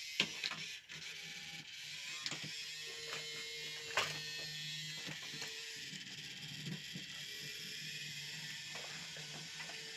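Small motor of a battery-powered toy train whirring steadily as it runs along the track, with a few sharp clicks and knocks, the loudest about four seconds in.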